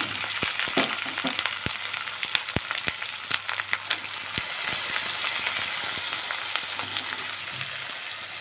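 Onions, green chillies and split lentils frying in hot oil in a kadai: a steady sizzle with scattered pops and crackles.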